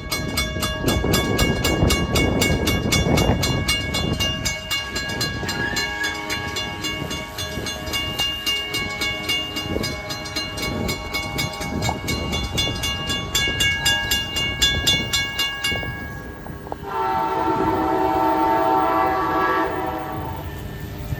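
Amtrak passenger train passing with a low rumble, accompanied by a fast, steady ringing of high tones, like a grade-crossing bell, which stops at about sixteen seconds. About seventeen seconds in, the lead Siemens Charger locomotive sounds its multi-tone horn for a few seconds.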